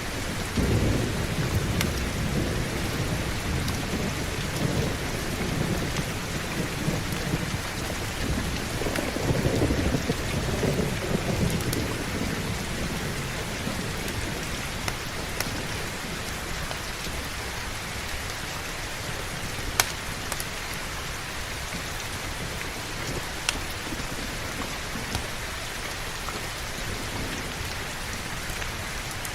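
Steady heavy rain with thunder rumbling through the first twelve seconds or so, strongest about a second in and again around ten seconds, then dying away to rain alone. A couple of brief sharp clicks in the second half.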